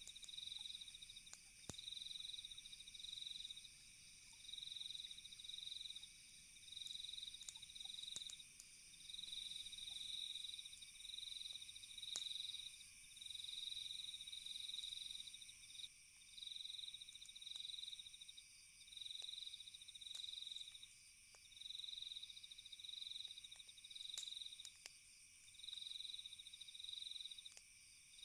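Crickets trilling in short repeated bursts, roughly one burst every second, over a steady high insect drone, with faint scattered crackles of a campfire.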